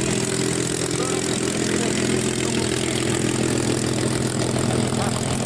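Propeller aircraft engine running steadily, a continuous even drone of several held tones.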